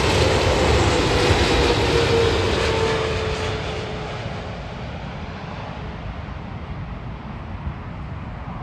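Jet airliner's engines passing and moving away: the noise and a slowly falling tone under it die down over the first four or five seconds, leaving a low, steady rumble.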